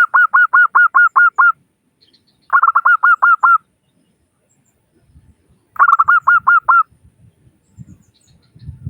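Zebra dove (perkutut) calling: three bouts of quick, evenly repeated cooing notes, about six notes a second, each bout lasting about a second.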